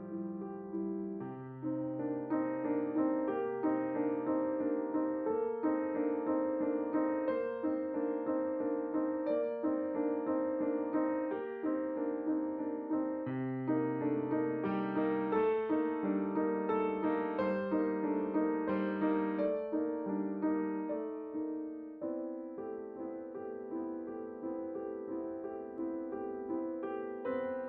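Piano music: a steady run of repeated struck notes and chords, thinning out a little about two-thirds of the way through.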